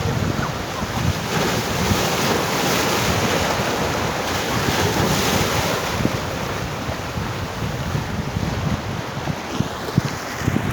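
Big sea waves washing in at high tide, the wash swelling about two seconds in and easing off later. Wind buffets the microphone in low thumps, more often near the end.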